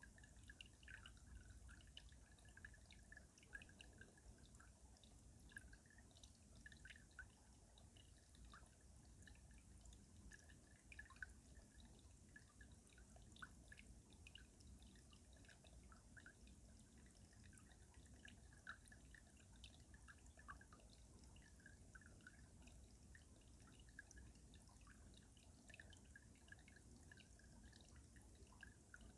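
Faint water of a mountain stream trickling and dripping beneath winter ice, with many small, irregular plinks and gurgles.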